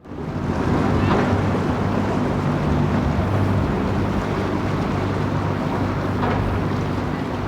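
City ambience dominated by a steady low engine hum, like an idling or passing vehicle, over a haze of street noise; a couple of faint brief sounds rise above it about a second in and again near the end.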